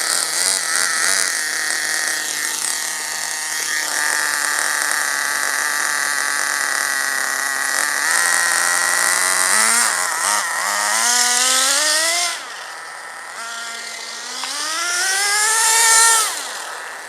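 Vertex .18 nitro engine in a 1/10-scale HSP Warhead buggy running at high revs, then revved up several times, its pitch rising and falling with the throttle during high-speed needle tuning. At full throttle it is still running lean, with little smoke.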